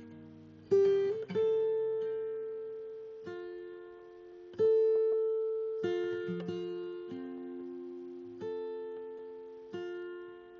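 Background music on acoustic guitar: slow chords and single plucked notes, each left to ring out and fade.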